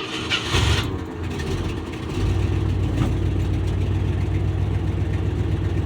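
Ford 390 V8 in a 1976 F250 cranked over on the starter in freezing cold, catching about two seconds in and settling into a steady fast idle on the choke: a cold start.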